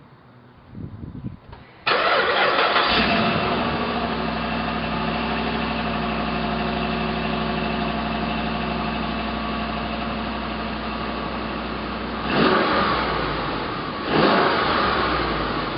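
2007 Dodge Ram 1500's 5.7-litre Hemi V8 on its stock exhaust cranking briefly and catching about two seconds in, flaring up and then settling into a steady idle. Near the end it is revved twice in short blips. The stock exhaust keeps it pretty quiet.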